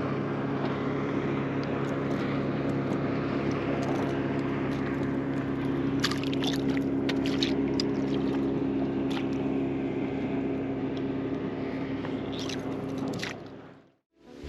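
Boat's outboard motor running at a steady speed, with a few sharp clicks about halfway through. The motor sound fades out quickly near the end.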